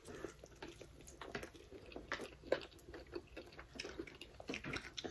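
People chewing and biting into fried chicken wings close to the microphone: many small, irregular crunches and mouth clicks.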